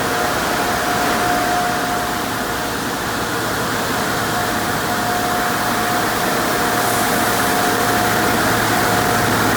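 Conveyor car wash tunnel equipment running: a steady rushing noise with a constant high whine and a low hum.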